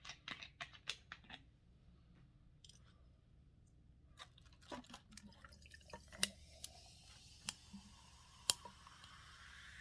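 Faint chewing and mouth smacks of a person eating a sandwich close to the microphone: a quick run of small clicks, a pause, then scattered wet clicks and smacks.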